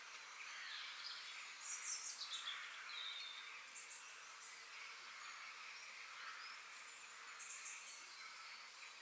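Nature ambience: several birds chirping and trilling over a steady background hiss, with the busiest run of calls about two seconds in and another short burst near the end.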